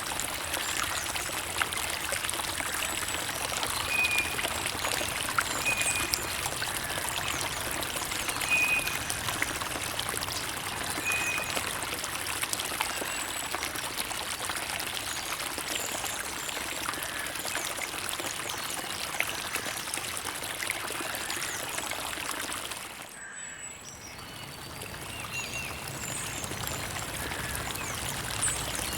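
Creek water running and trickling in a steady rushing stream, with a few short high chirps in the first ten seconds or so. The water dips briefly a little after three-quarters of the way through, then swells back.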